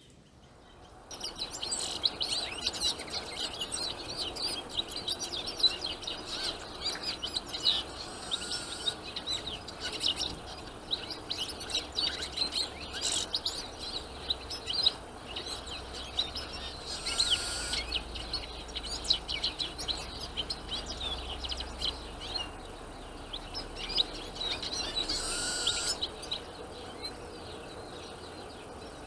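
Small songbirds chirping and twittering, a dense chatter of rapid short calls, with a longer, smoother note three times.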